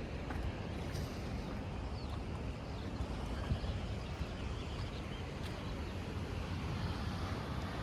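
Steady low rumble of ocean surf and wind along the sea cliffs, with a few faint clicks and small high chirps over it.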